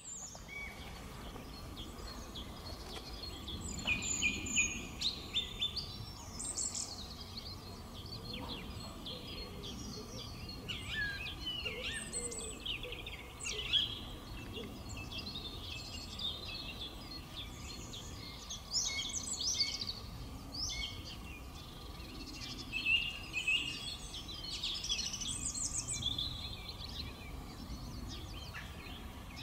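Songbirds singing and chirping, many short quick calls and trills overlapping throughout, over a low, steady background hum.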